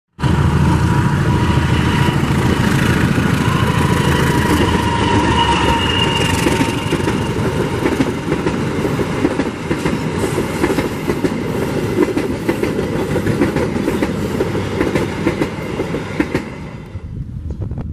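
Diesel-electric locomotive running past close by, followed by passenger coaches rolling over the rails with a steady clickety-clack of wheels on rail joints. A thin high whine sits over the first few seconds and fades out about six seconds in; the sound drops sharply near the end.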